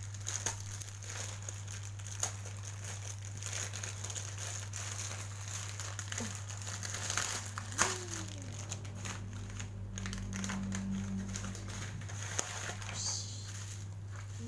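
Plastic parcel packaging and bubble wrap being handled and opened by hand: continuous crinkling with scattered sharp crackles, the loudest a little under halfway through, over a steady low hum.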